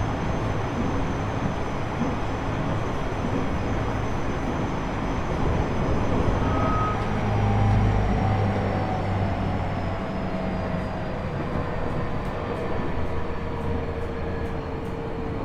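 Running noise inside a JR East E127 series motor car with a Toyo Denki GTO-VVVF inverter: wheels on rail under a steady rumble, with motor and gear whine slowly falling in pitch as the train slows. The gear whine of this car, KuMoHa E127-11, carries an extra tone a semitone above its usual minor-seventh sound, the mark of a known abnormal-noise car.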